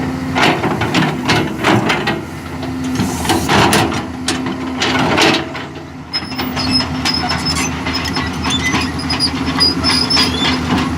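Excavator's diesel engine running, with clanks and scraping in the first half. From about six seconds in, a steady high-pitched squeal from its steel tracks as the machine travels over the soil to tramp it level.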